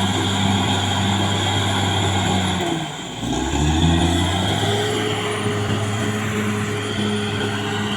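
Caterpillar D6R XL bulldozer's diesel engine running steadily. About three seconds in the engine note dips briefly and glides back up, then settles again.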